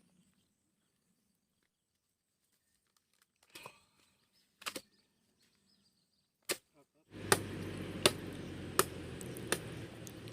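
Sharp chopping strikes of a knife or sickle blade cutting into a wild date palm to reach its heart. At first there are a few scattered blows. Then a steady rumbling background sets in suddenly, and through it a regular series of strikes lands about every 0.7 s.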